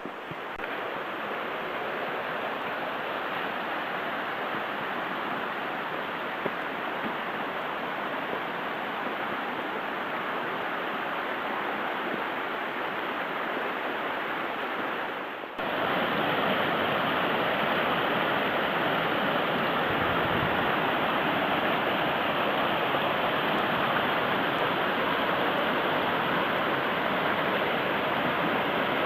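Steady rushing of a mountain stream, an even hiss-like flow without a break, which gets louder after a cut about halfway through.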